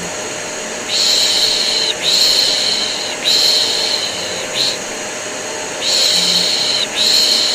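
Rhythmic 'shh, shh' shushing for soothing a baby, about one long shush a second with a short gap in the middle, over the steady drone of a running vacuum cleaner.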